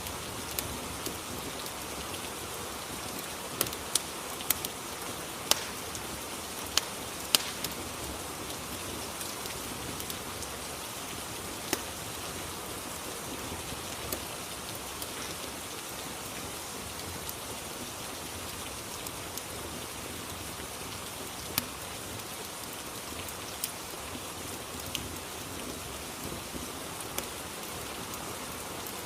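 Steady rain hiss with scattered sharp crackles of a fireplace, several bunched a few seconds in.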